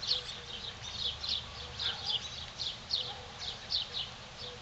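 A bird chirping over and over: short, high, falling notes, often in pairs, about three a second.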